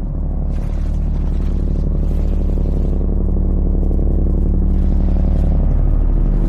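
Electronic music: a loud, low synthesizer drone with a rumbling bass, holding several steady notes at once and swelling slowly.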